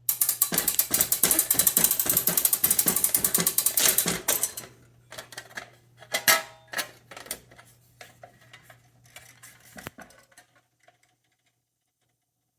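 Clockwork spit engine's gears and ratchet clicking rapidly for about four and a half seconds, then slowing into scattered clicks and knocks that die away about ten seconds in.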